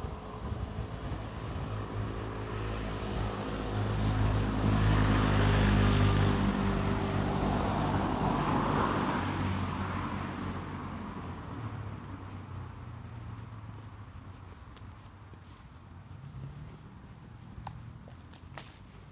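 Autumn insects chirring steadily in two high-pitched bands, while an engine passes by, swelling to its loudest about five seconds in and fading away over the following several seconds. A few faint clicks come near the end.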